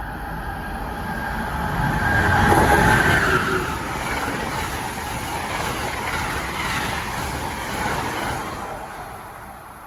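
A train passing by, its rumbling noise building to a peak about three seconds in, then slowly fading away.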